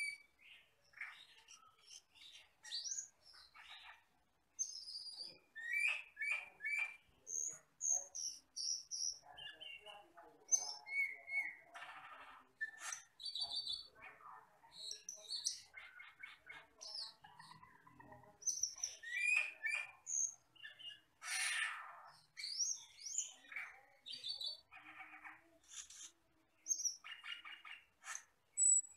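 Asian glossy starling (camperling, cucak keling) singing a long, varied song of short chirps, whistled slurs and buzzy rattling notes with brief gaps, the kind of recording used to tutor captive birds.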